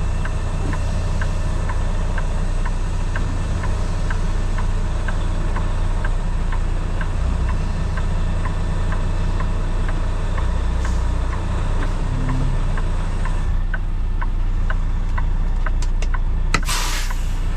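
Kenworth T680 semi truck's diesel engine running steadily at low speed while backing, with a regular light ticking about one and a half times a second. Near the end comes a short, sharp air hiss, as from the air brakes being set.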